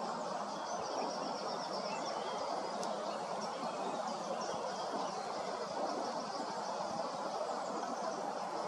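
European robin singing faintly: thin, high trilling phrases over a steady rush of outdoor background noise.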